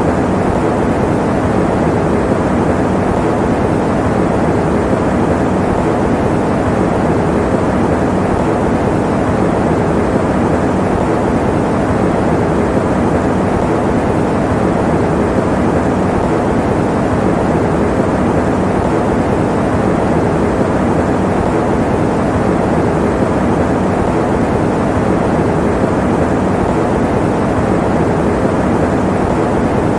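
Electric fan running steadily: a constant, even whoosh with a low hum underneath.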